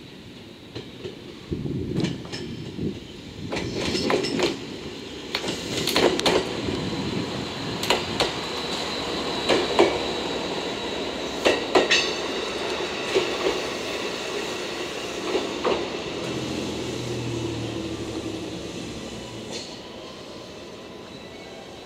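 JR West DEC700 single-car diesel-electric railcar rolling past at low speed, with irregular wheel clacks over rail joints and points under its running noise. It is loudest as it passes and fades as it moves away.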